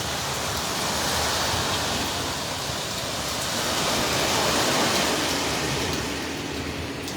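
Hurricane-force wind and driving rain, a steady rushing that swells in a gust about four to five seconds in and then eases.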